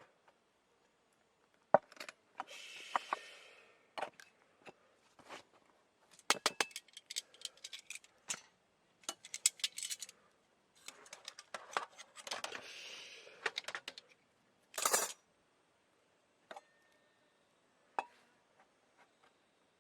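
Metal camp cookware and utensils being handled: irregular small metallic clinks, taps and scrapes, with two longer stretches of scraping and a short, louder burst about fifteen seconds in.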